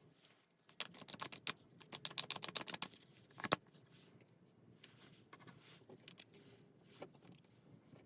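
Tarot cards being shuffled and handled: a quick run of light clicking slaps lasting about two seconds, ending in one sharper snap, then a few soft scattered taps.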